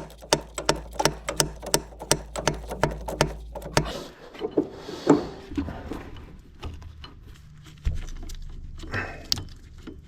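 Hand ratchet clicking in quick, even strokes, about five clicks a second, as a nut is run onto a U-bolt. After about four seconds the clicking thins out and turns irregular, with one louder knock about five seconds in.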